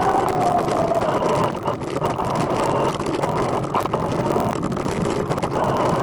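Steady rolling and wind noise from riding a recumbent trike, with a faint wavering hum.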